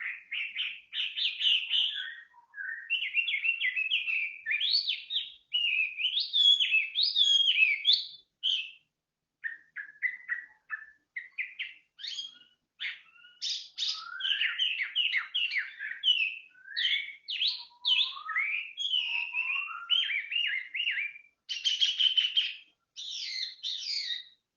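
Songbird singing a long, varied song of quick chirps, trills and whistled notes sliding up and down, in several runs with brief pauses between them.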